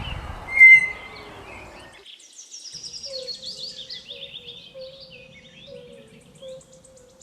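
Outdoor ambience of birds chirping and insects: a short, loud high-pitched whistle less than a second in, then a falling trill of high chirps and a steady wavering hum.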